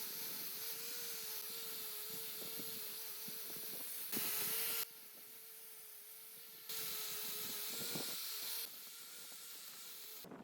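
Steady hiss of compressed air from an air tool, over a steady hum. It gets louder in two spells with sudden starts and stops.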